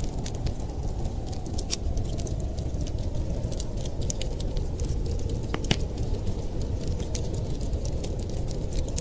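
Wood fire crackling: irregular sharp pops and snaps, a few louder ones about halfway through, over a steady low rumble.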